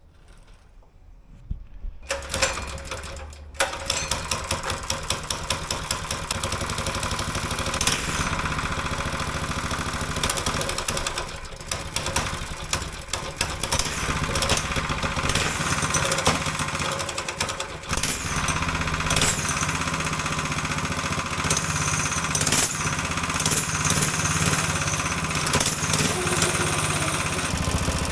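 Small mini bike engine starting about two seconds in, then running steadily with a fast even firing rhythm and a couple of brief dips in speed.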